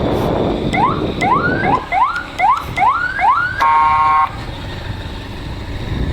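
Novelty electronic horn on a motorbike giving about seven quick rising whoops, siren-like, followed by one short flat horn blast about four seconds in, over the bike's engine and street noise.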